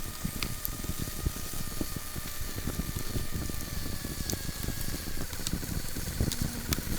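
Camp cooking fire crackling and sizzling, with a faint steady whistle that sinks slightly in pitch.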